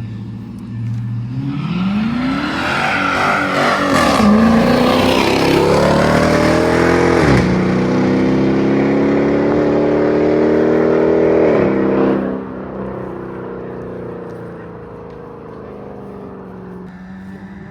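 A car engine at hard throttle, accelerating through the gears. Its pitch climbs, drops sharply at each of three upshifts, then settles into a steadier, quieter cruise for the last few seconds.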